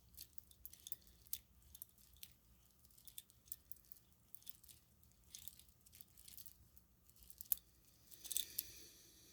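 Faint small clicks and crackles of string lights being handled: plastic bulbs and cord tapping and rubbing. One sharper click comes about seven and a half seconds in, and a brief rustle follows near the end.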